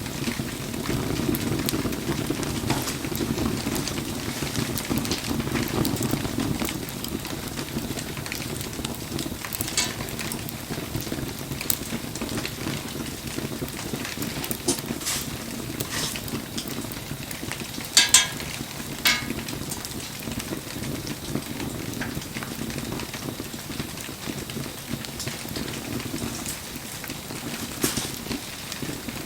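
Wood bonfire burning in the rain: a steady rushing noise with scattered sharp crackles and pops, the two loudest pops coming close together about two-thirds of the way in.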